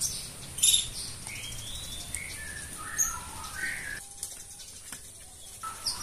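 Small songbirds chirping and calling in short whistled notes, with a run of notes stepping down in pitch in the middle.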